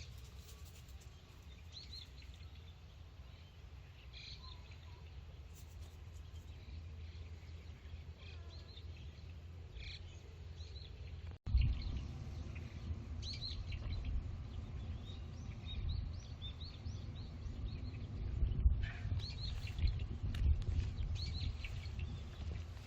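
Small birds chirping, many short high calls scattered throughout, over a low rumble on the microphone. The sound breaks off sharply about halfway through, and after that the rumble is louder.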